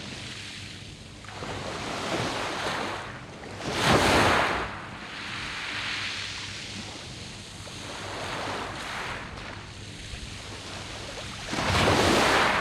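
Sea waves breaking on a beach of round pebbles, with a continuous rushing wash between two louder breaks, one about four seconds in and one near the end.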